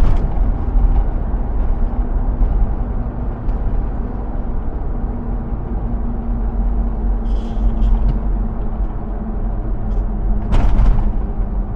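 A 2005 Hummer H2's 6.0-litre V8 running at a steady pitch while the truck is driven, under a heavy low rumble of engine and road noise. A brief louder rush of noise comes at the start and again near the end.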